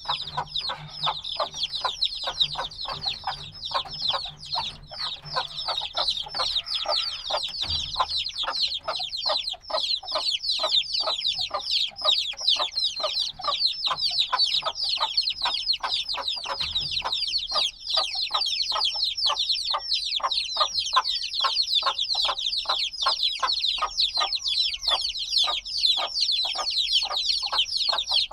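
A brood of chicks a few days old cheeping nonstop: many rapid, high, downward-sliding peeps overlapping each other, over a lower, evenly repeated pulse about twice a second.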